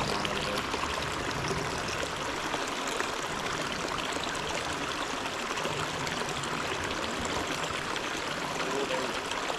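Water of a small creek flowing, a steady rushing with no breaks.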